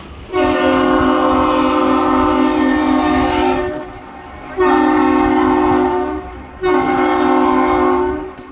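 Horn sounding one long blast and two shorter ones, several tones sounding together as a chord. It is the long-short-short salute traded between a lake freighter and the Aerial Lift Bridge as the ship comes through the canal.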